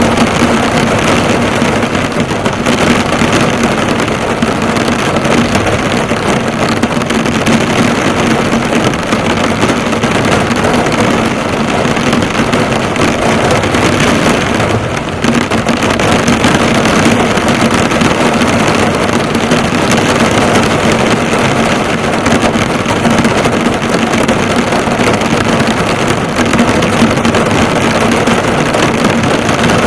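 Heavy rain drumming on a car's bodywork, the drops bouncing off the hood in a dense, steady patter, with a steady low hum underneath.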